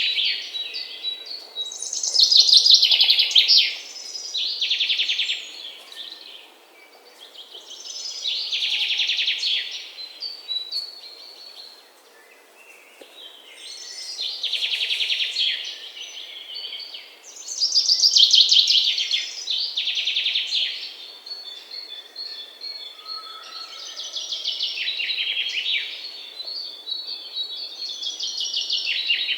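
Songbird singing loud, rapid trilled phrases that come back every few seconds, over faint outdoor background.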